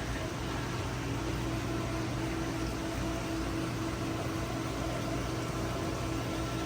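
Steady electrical hum with a constant hiss, the background drone of a fish shop's running tank equipment.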